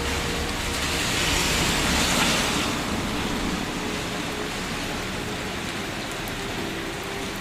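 Steady rain falling, swelling to a heavier wash about two seconds in, then easing back to an even patter.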